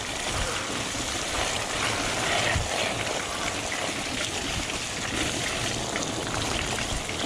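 Steady rushing noise of a fat bike in motion on a dirt trail: wind on the microphone and tyres rolling over the ground, with occasional low thumps from bumps.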